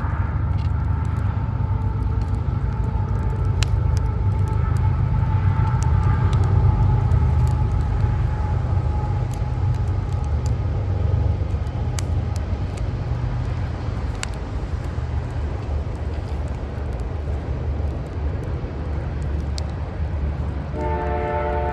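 Low city rumble that swells and then eases off, with scattered crackles from a backyard wood fire. Near the end a horn starts sounding a steady chord of several notes.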